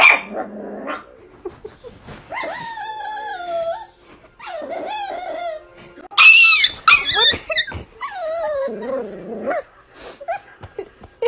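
A dog whining and yelping in a string of drawn-out cries that slide down in pitch. The loudest, highest cry comes about six seconds in.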